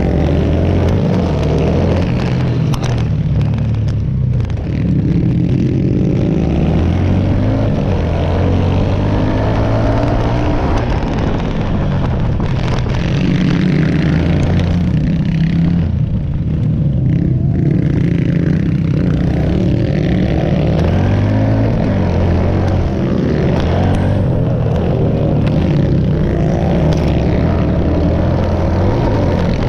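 Pit bike engines running and revving as they are ridden around a dirt track, the pitch rising and falling with the throttle.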